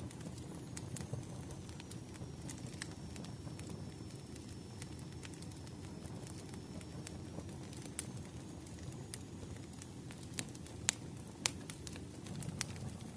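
Wood fire burning, a low steady rumble of flames with irregular crackles and snaps, two louder pops near the end.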